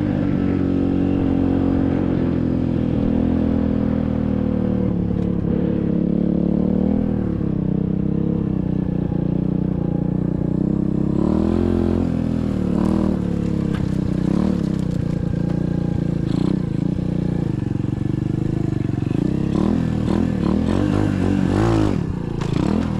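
SSR 125cc dirt bike's single-cylinder four-stroke engine running while ridden. The pitch holds fairly even at first, then rises and falls with throttle changes through the second half, with a few clattering knocks.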